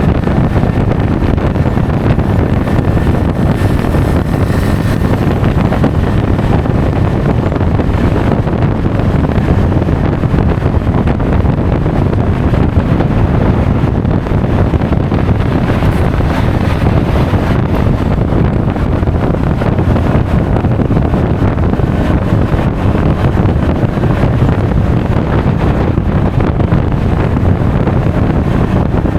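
Steady, loud wind noise buffeting an action camera's microphone on a moving Honda Forza 350 scooter, over the scooter's engine and road noise.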